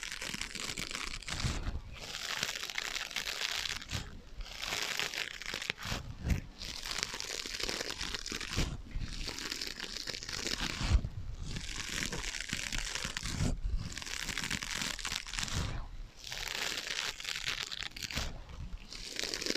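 Scratching on sponges with an echo effect on the sound: long stretches of scratchy rustling, broken by short pauses every couple of seconds.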